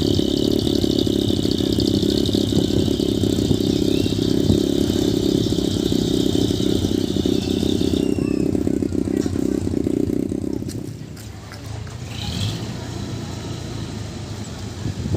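Heavy truck engine running hard under load during a tow-strap recovery, with a steady high whine over it that stops about eight seconds in. The engine then eases off sharply a couple of seconds later and runs on much quieter.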